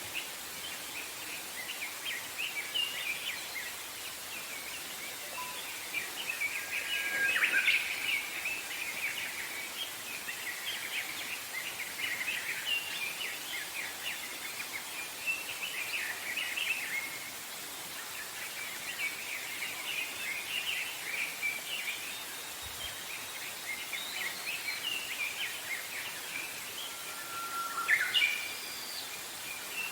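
Wild songbirds chirping and singing together in a dense, unbroken chorus of short high notes over a steady background hiss, with louder, closer calls about a quarter of the way in and again near the end.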